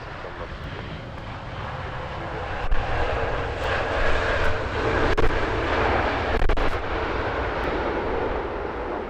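Jet airliner's engines passing close by, the noise building to a peak in the middle and easing off toward the end, with a steady whine through the loudest part.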